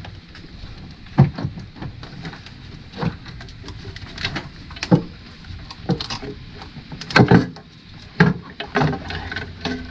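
Irregular knocks, clicks and scrapes of a timing cover being worked and wiggled out past the parts of a 3.6L V6 engine bay, with a cluster of louder knocks about seven seconds in.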